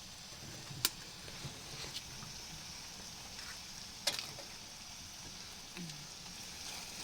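Food frying in hot oil: a steady sizzle with two sharp pops, about a second in and about four seconds in.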